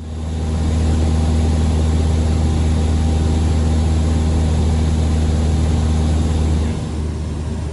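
Cessna Skyhawk's piston engine and propeller droning steadily, then abruptly dropping to a quieter, lower drone about seven seconds in.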